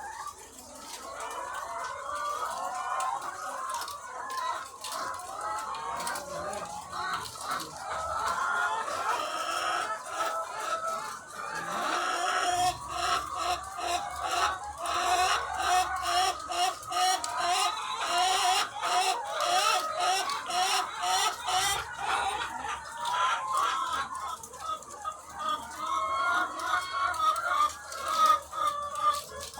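A large flock of egg-laying hens clucking and calling all at once in a dense, continuous chorus. Through the middle stretch, rapid clicking and a low hum run under the calls.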